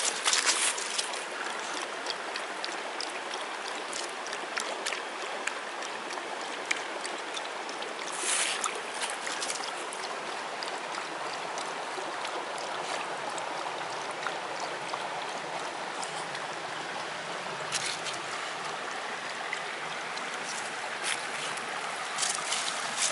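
Small wood fire burning in a UNIFLAME Nature Stove: a steady hiss with scattered crackles and pops, and a couple of louder bursts of noise about 8 and 18 seconds in.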